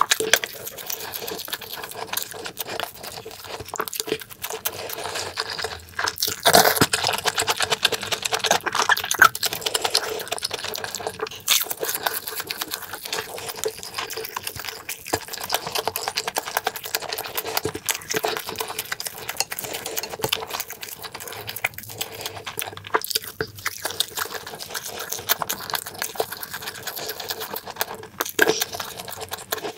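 Close-miked chewing and mouth smacking of pan-fried sausage and crab-stick pancakes, a rapid run of wet clicks, louder around a quarter of the way in.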